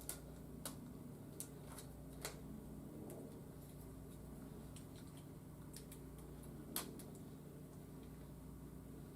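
Scattered small clicks and taps of hard plastic as a toy robot figure's parts and joints are handled and adjusted: about half a dozen separate clicks, the loudest about seven seconds in, over a faint steady hum.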